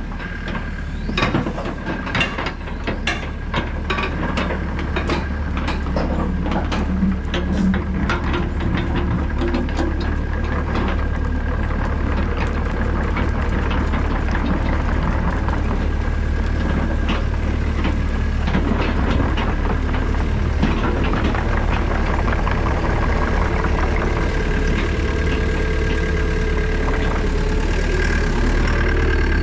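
Excavator's diesel engine running steadily under a steady high whine. Over the first ten seconds or so, many sharp knocks and clicks of the bucket working through rocky ground; after that, mostly the engine, growing slightly louder.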